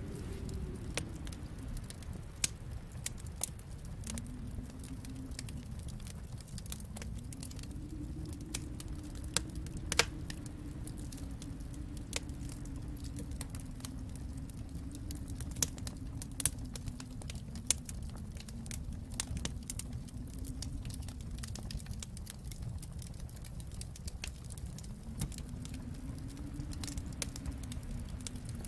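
Wood fire in a fireplace crackling, with scattered sharp pops and snaps over a low rumble that swells and ebbs.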